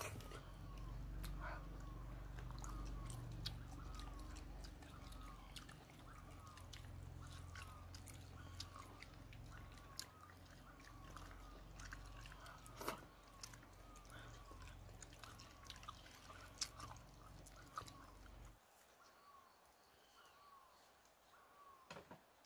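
Faint close-up chewing and eating sounds, with scattered small clicks and a few sharper ones. A soft chirp repeats about twice a second in the background.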